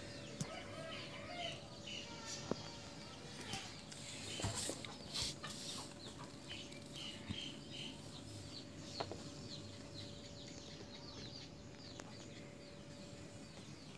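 Quiet background with faint bird calls coming and going, a few light clicks, and a faint steady hum that stops shortly before the end.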